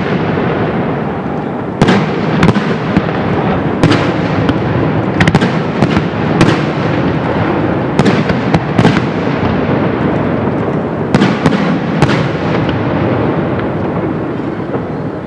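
Aerial fireworks bursting overhead: a string of sharp bangs about every second, with continuous crackling and rumbling in between, easing off slightly near the end.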